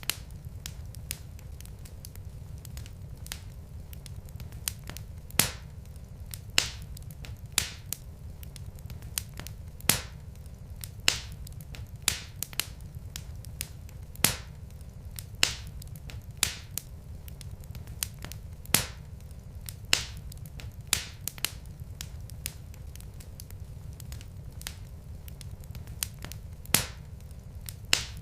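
Wood fire crackling in a fireplace: irregular sharp pops and snaps from the burning logs, roughly one a second, over a steady low rumble.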